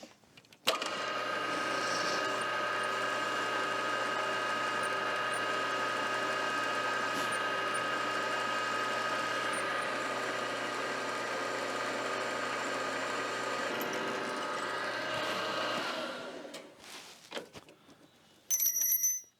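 Milling machine spindle motor starting, running steadily for about fifteen seconds, then spinning down. A brief high-pitched ring follows near the end.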